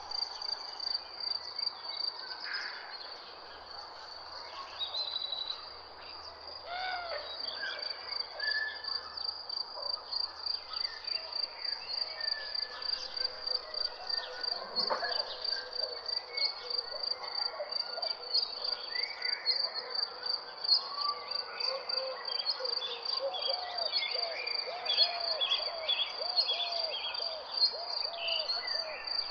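Nature ambience: a steady, fast-pulsing high insect trill like crickets, with various birds calling over it. Near the end one bird repeats a short arching call about twice a second.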